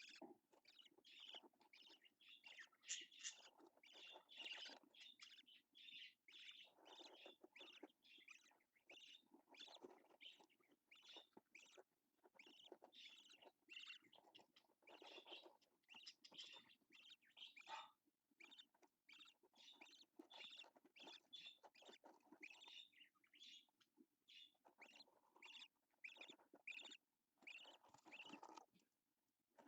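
Budgerigar chattering in a faint, continuous stream of rapid short chirps and twitters.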